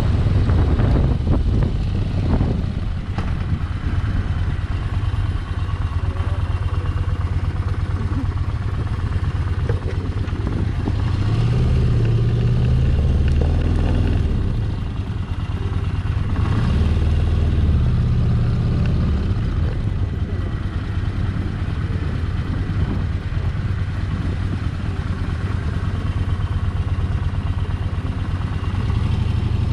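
Motorcycle engine running steadily while riding, with a broad rush of road and wind noise; the engine note shifts a few times around the middle.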